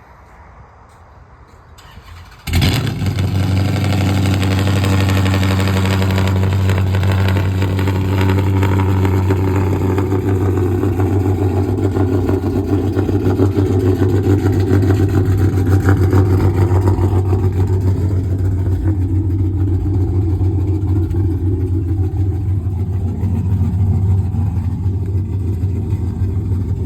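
Dodge Charger R/T's cammed V8 cold-starting: it fires up suddenly about two and a half seconds in, then idles loudly and steadily on a cold start.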